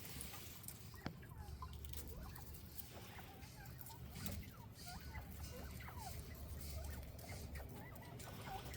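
A flock of northern bobwhite quail giving many soft, short chirping calls, scattered and overlapping, with a few faint clicks among them.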